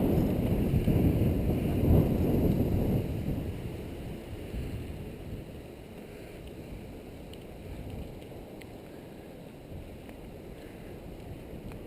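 Wind buffeting the microphone as a low, gusty rumble, loud for the first three seconds or so, then dying down to a quieter steady rumble.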